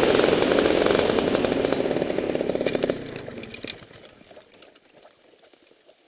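Paramotor's small two-stroke engine running with a loud buzz, then dying away over a couple of seconds.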